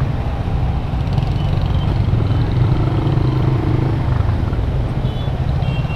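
AKT RTX 150 motorcycle's single-cylinder engine running steadily at low speed in stop-and-go city traffic, with the engines of the surrounding cars, bus and motorcycles around it.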